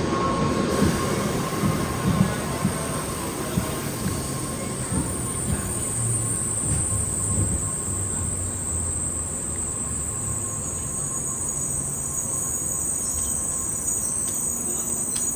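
Shinkansen train running on the track: a low rumble with scattered knocks in the first few seconds, then a steady high-pitched whine sets in about five seconds in and holds.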